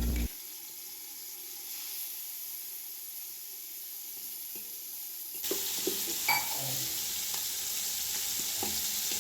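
Marinated chicken pieces shallow-frying in hot coconut oil, sizzling steadily. About five seconds in the sizzle gets louder, with a few light utensil knocks as the pieces are stirred or turned.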